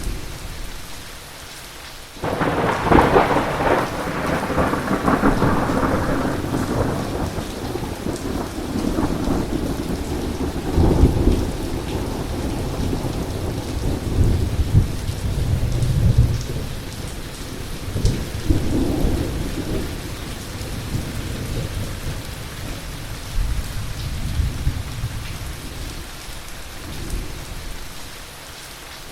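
Heavy thunderstorm: steady rain with a sudden loud thunderclap about two seconds in. The clap rolls on into long rumbling thunder that swells several more times before fading back to rain near the end.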